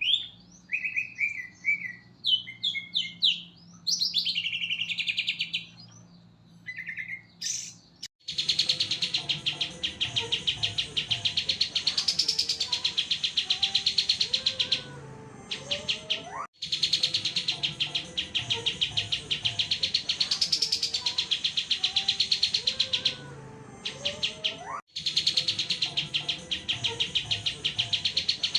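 Recorded songbird song used as training audio for caged birds: first a varied series of short chirps and whistled notes, then, about 8 seconds in, an abrupt switch to a fast, continuous trilling song that repeats as a loop every 8 seconds or so.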